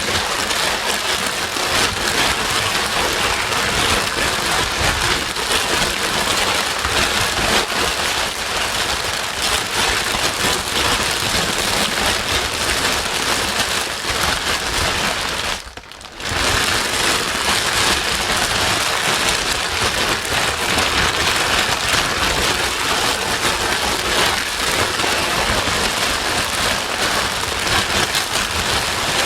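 Steady white noise, a dense even hiss much like heavy rain. It drops out briefly about halfway through, then resumes.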